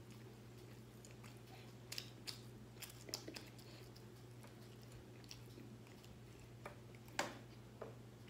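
Faint chewing of a bite of plant-based meat-substitute food, with scattered soft mouth clicks and smacks that cluster about two to three seconds in and again near the end, over a low steady hum.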